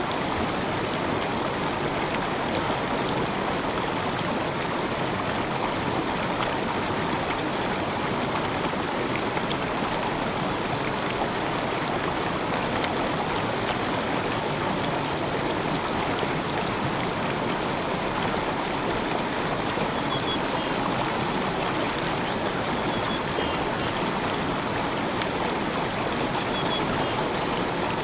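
Gentle river stream flowing: a steady, even rush of water.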